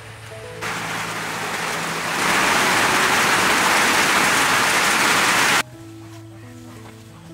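Heavy rain falling, coming in about half a second in, growing louder about two seconds in and cutting off suddenly near the end.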